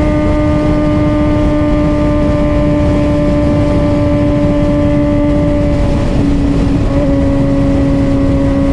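Suzuki GSX-R600 inline-four engine running at steady revs under way, a constant hum whose pitch dips slightly about six seconds in, with wind rushing over the microphone.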